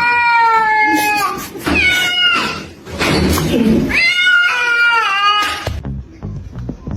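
Domestic cat meowing loudly in three long, drawn-out yowls, each falling slightly in pitch. Near the end the sound cuts to a quick run of soft low knocks.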